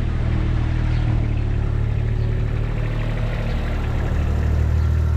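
A car engine idling steadily, loud and close, with a deep even note.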